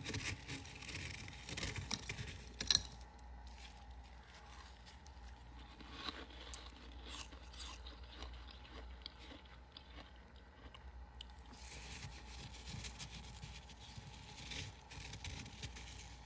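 Faint crunching of freezer frost, with irregular small crackles and scrapes; the sharpest crackle comes about two and a half seconds in.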